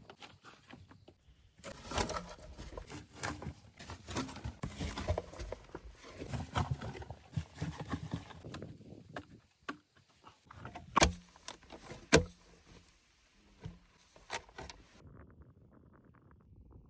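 Irregular crunching, scraping and knocking from hands-on outdoor work, then two sharp knocks about a second apart, each with a short low ring, and a lighter knock after them.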